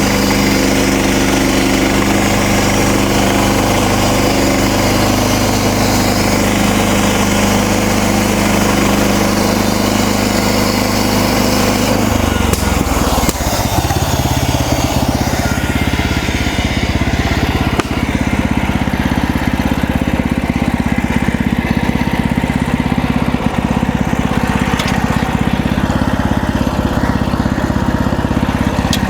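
Band sawmill's engine running steadily while the blade saws through a cedar log. About halfway through, the engine note shifts lower and the high hiss eases off.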